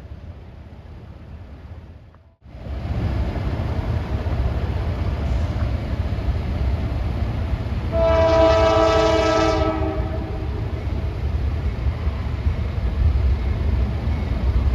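Freight train's diesel locomotive running close by with a loud low rumble. Its horn sounds once as a multi-tone chord for about a second and a half midway through.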